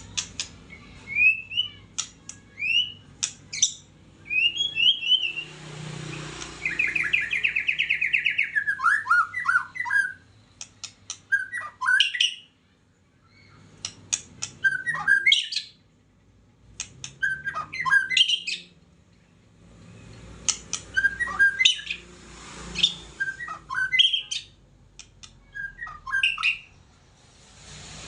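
White-rumped shama singing a varied song of whistled phrases mixed with sharp clicking notes and a fast trill, with short pauses between phrases.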